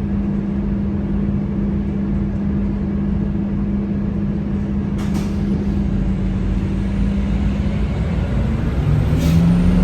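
Scania K230UB city bus's diesel engine running with a steady drone, heard from inside the cabin. Near the end the engine note changes and begins to climb as the bus picks up speed. There are two brief hisses, one about five seconds in and one near the end.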